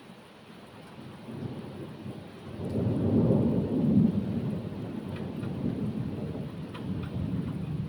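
Rolling thunder over steady rain: a low rumble swells about a second and a half in, is loudest around three to four seconds, then lingers as a fainter rumble.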